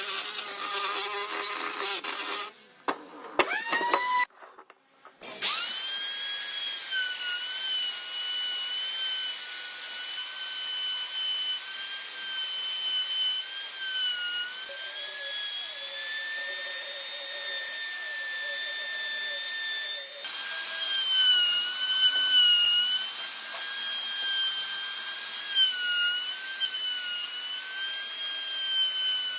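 Electric power tool motor whining at a high pitch, spinning up and stopping briefly about three seconds in, then restarting and running steadily, its pitch dipping now and then as it bears into the wood.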